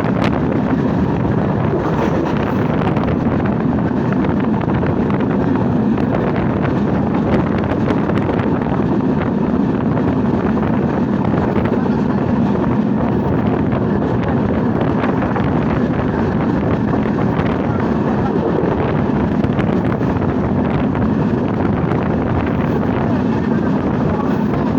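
Steady rushing noise of a passenger train running at speed, with wind buffeting the microphone.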